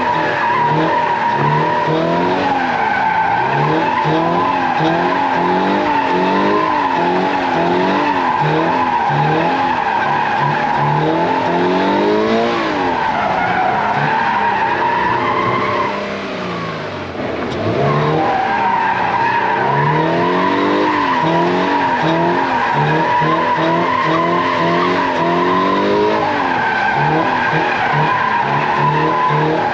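Toyota GR86's 2.4-litre flat-four revving up and down again and again while the rear tyres squeal through a long drift. About halfway through, the revs and squeal drop briefly as the throttle is lifted, then pick up again.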